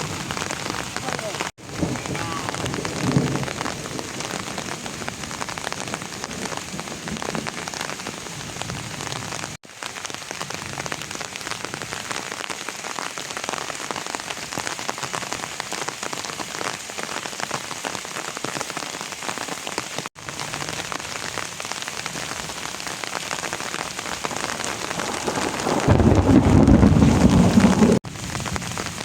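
Steady rain falling, with the sound dropping out for an instant a few times. Near the end, a louder, deeper stretch of about two seconds swells up and cuts off abruptly.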